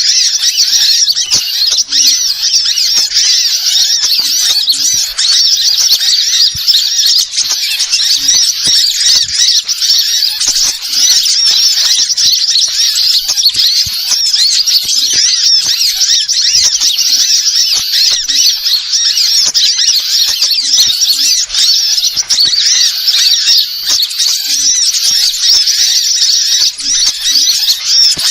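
Dense, continuous high-pitched chirping and twittering of many small birds, a bird-lure (pikat) recording made to draw wild birds in.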